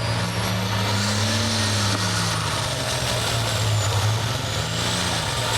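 John Deere hot farm pulling tractor's diesel engine running hard and steady under load, with a faint high whistle that rises and falls. The announcer takes its note for a bad injector or a broken line, with the engine running on five cylinders, maybe only four.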